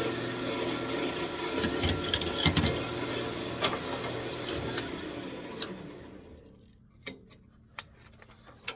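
Wood lathe running with a steady hum and a few sharp clicks from the work, then switched off and winding down to quiet about six seconds in; a few light clicks and knocks follow.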